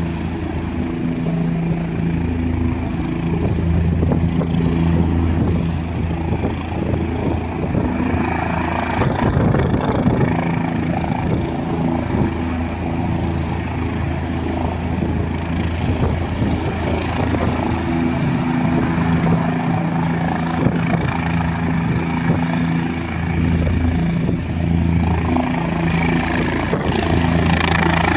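Helicopter running, a steady rotor and engine sound, with stronger rushes of noise about a third of the way in and again near the end.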